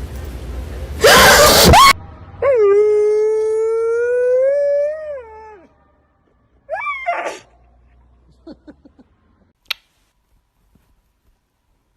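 A dog howls once, a long howl of about three seconds that rises slowly and drops away at the end, followed by a short rising yelp. Just before the howl there is a loud, brief burst of noise.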